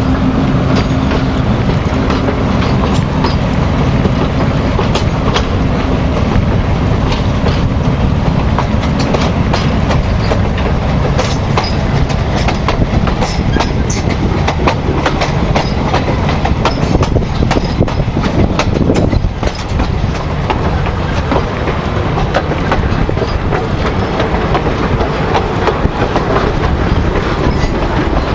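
Passenger train rolling close by: a small centre-cab diesel switcher locomotive running with a steady engine tone for the first few seconds, then the coaches' wheels clicking over the rails under a continuous heavy rumble.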